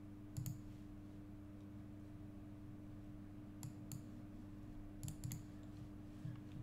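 A few sharp computer mouse clicks, some in quick pairs, spaced irregularly over a steady low hum.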